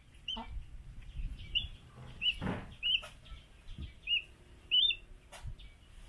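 Young birds of prey calling with short, high chirps, about six spread across a few seconds, each a quick note that rises and falls. A few faint knocks come in between, the loudest about halfway through.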